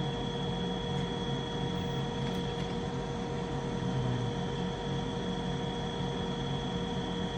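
Household furnace running: a steady, unchanging mechanical hum with a faint high whine over it.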